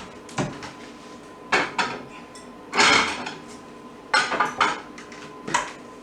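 Dishes and cutlery clinking and clattering as a saucer and utensils are taken out and handled: a string of separate knocks and clinks, with a longer rattle about halfway through.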